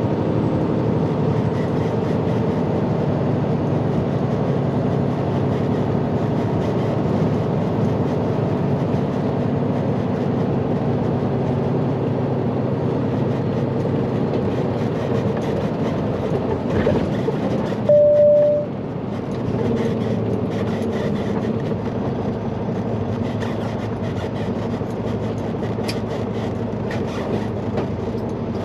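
Semi truck's diesel engine and road noise droning steadily inside the cab while driving. About two-thirds of the way through, a single short electronic beep sounds, and a few light clicks come near the end.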